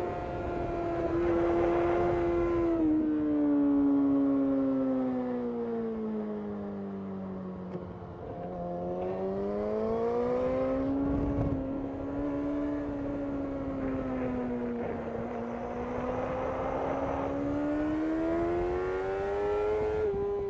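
2005 Yamaha R6's inline-four engine at high revs on track. The pitch sinks slowly over the first eight seconds, rises again, holds, then climbs near the end, with wind rush underneath.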